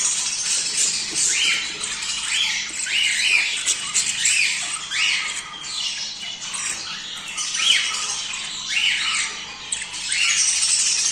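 Flock of small pet parrots chattering and squawking together, with short arched calls repeating about once a second over a dense high chatter. This is the breeding-time chatter of budgies and lovebirds.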